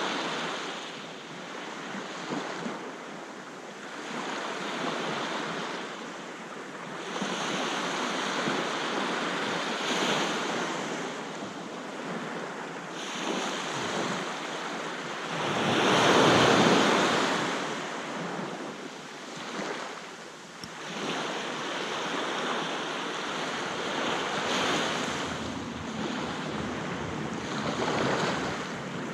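Aegean sea waves breaking and washing up the beach, the surf swelling and falling back every few seconds, with the largest wave breaking about halfway through.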